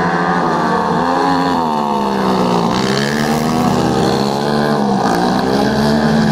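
The engines of two 250 cc speedway solo bikes running hard at race pace. Their note dips and climbs again twice, about three seconds and five seconds in.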